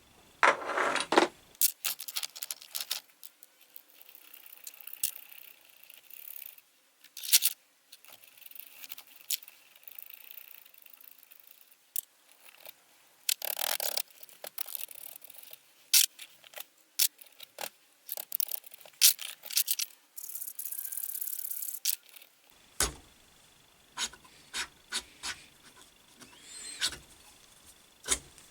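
Metal parts of a lathe fixed steady (steady rest) being handled as its fingers and adjusting threads are worked: irregular clicks, taps and knocks, with a few longer scraping rubs.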